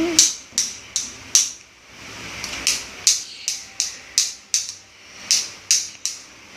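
A series of sharp clicks or taps, about two to three a second, with a short pause about a second and a half in.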